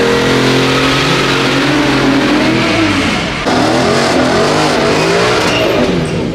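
Car engine revving loudly, held at steady high revs for about three seconds. After a brief drop a little past halfway, the revs swing up and down.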